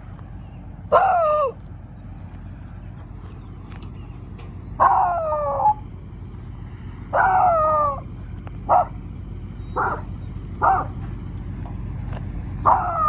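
Young male beagle barking and baying at a pig truck: about seven calls, several drawn out and falling in pitch, with a few short sharp barks in the middle. The owner takes it for the dog being scared of the truck.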